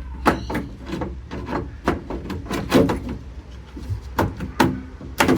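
Irregular clicks and knocks of metal parts and hand tools being handled while a hot water heater is taken apart for scrap, about a dozen sharp strikes, some ringing briefly.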